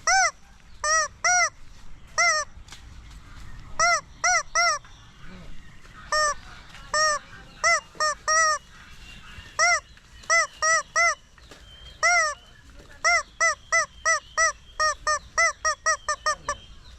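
Dozens of short goose-like honks, each one rising and falling in pitch, given in irregular groups with brief pauses. The honks come fastest near the end, about two a second.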